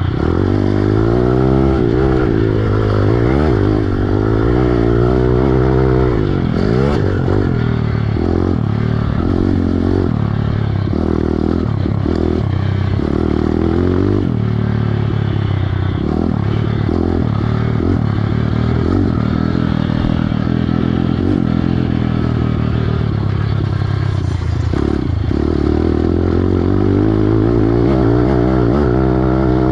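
Piranha 140 pit bike's single-cylinder four-stroke engine being ridden hard, revving up and dropping back again and again with the throttle and gear changes.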